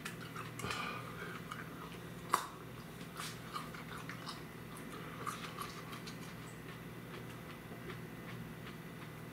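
A person chewing whole 7 Pot Primo chili peppers: small wet crunches and mouth clicks, one sharper click about two and a half seconds in, over a steady low hum.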